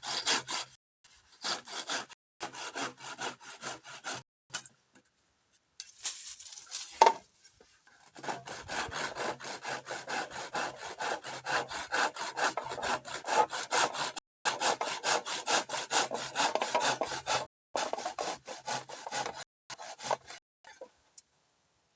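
Saw cutting through bamboo in quick back-and-forth strokes, in several runs with short pauses, with one sharp knock about seven seconds in; the sawing stops near the end.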